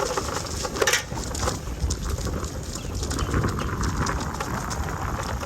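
Bicycle ride: wind rumbling on the microphone under an irregular clicking and knocking rattle from the bike, which the rider says sounds weird.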